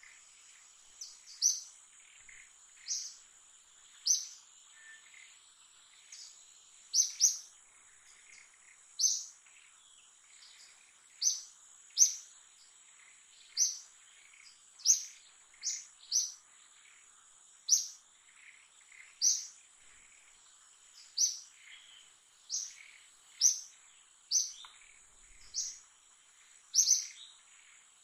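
Short, high bird chirps repeating about every one to two seconds over a steady, high-pitched insect drone.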